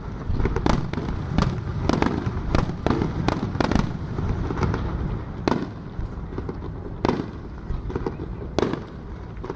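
Aerial fireworks bursting in a rapid, irregular run of sharp bangs and crackles over a continuous low rumble, the bangs thinning out after about four seconds.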